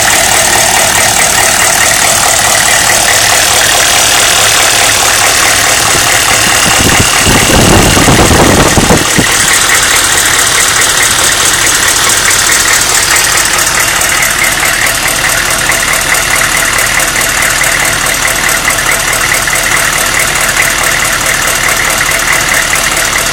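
A 1995 Suburban's 6.5-litre turbo-diesel V8 idling warm with a fast, steady clatter. This includes an odd noise from the engine's right side whose cause is unknown. About seven seconds in, a louder low rumble lasts for roughly two seconds.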